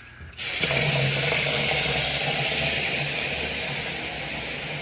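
A hot-water tap is turned on about half a second in and water runs with a loud, steady hiss, drawing demand on a Rinnai tankless water heater. A low, steady hum sits underneath.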